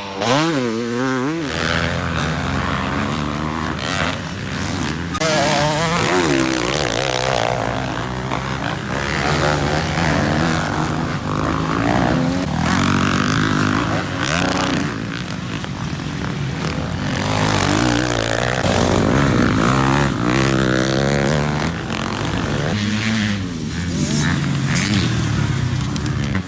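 Dirt bike engine being ridden off-road, its pitch rising and falling continually with the throttle.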